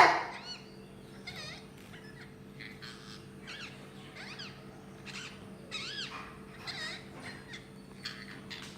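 A parrot giving a string of short, faint chirps, each one rising and falling in pitch, roughly one every half second to second.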